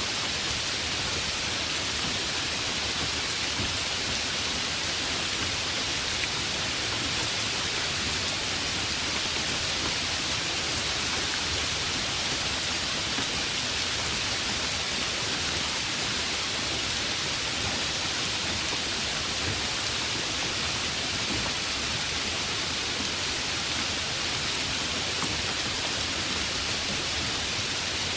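Heavy rain falling steadily, an even hiss of drops with no breaks or thunder claps.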